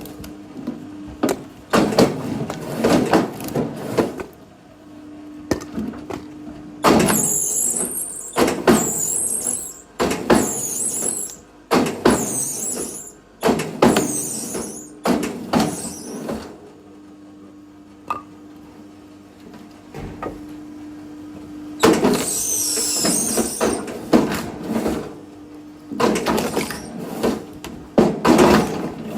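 Firewood being split: repeated bouts of wood creaking and cracking apart, some with a high squeal, with a steady low hum between them.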